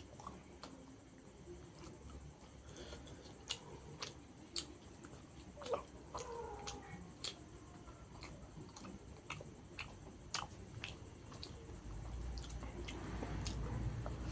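A person eating rice and tilapia curry close to the microphone: chewing with many sharp, irregular mouth clicks and smacks. A low rumble builds near the end.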